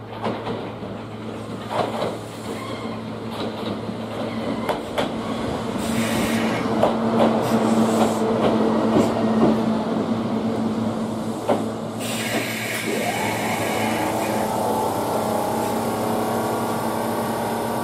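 Kintetsu 21000 series Urban Liner Plus express train rolling slowly alongside the platform, its wheels clicking over the rail joints and its brakes hissing as it draws to a stop. The noise cuts off sharply about two-thirds of the way through. A whine then rises and holds steady while the train stands.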